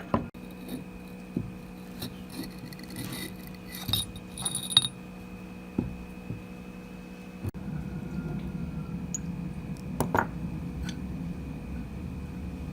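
Small metal parts clinking, tapping and being set down, with a few short metallic rings, then a steady machine noise starts about halfway through and keeps running, with one sharp click partway into it.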